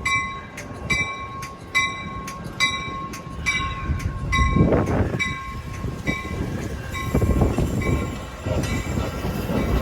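A railroad bell dinging at a steady rate, less prominent after the middle, over the low rumble of a Metra commuter train at the station, which swells louder about halfway through.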